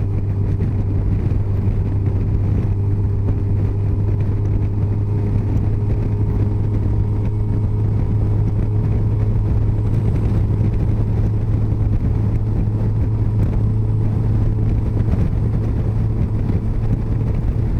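Yamaha FJR1300 inline-four engine running at a steady highway cruise, with wind and road noise. The low drone holds one pitch throughout, with no change in speed.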